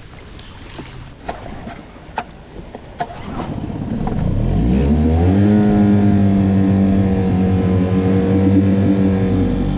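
A few handling knocks and clicks, then a Mercury 9.9 HP outboard motor throttles up: its pitch rises over about two seconds, starting about three and a half seconds in, then holds steady and loud.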